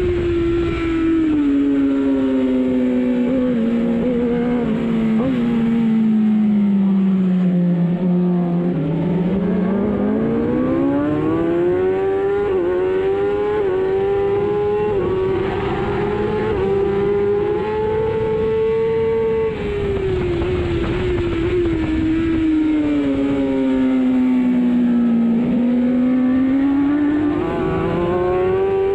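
Superbike engine at race pace on track: the revs fall twice, under braking and downshifts, and climb again in steps as it accelerates through the gears.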